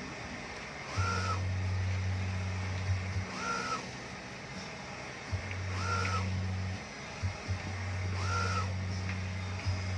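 Mimaki UJP-3042MkII EX UV flatbed printer at work: a short rising-and-falling whine repeats about every two and a half seconds as the print carriage sweeps back and forth, over a low hum that cuts in and out.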